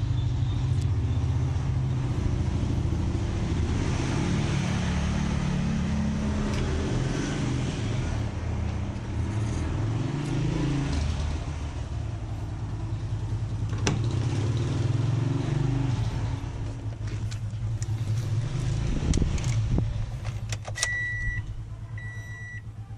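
Toyota Yaris engine running, the revs rising and falling a few times. Near the end, two short electronic beeps.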